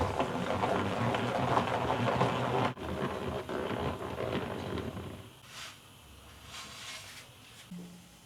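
Food sizzling in a hot frying pan, a dense crackling hiss that fades away after about five seconds.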